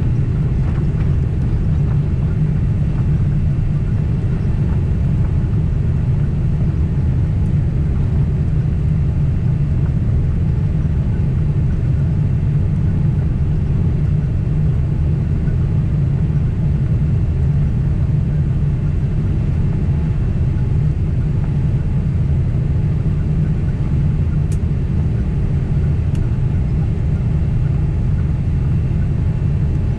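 Steady cabin rumble of a Boeing 767 airliner in flight: engine and airflow noise, deep and unchanging, with a faint high steady tone. Two faint ticks come near the end.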